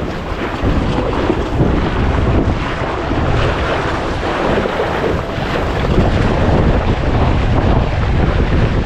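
Wind blowing hard across the microphone, with water washing against a small sailboat under way; a steady, rumbling noise.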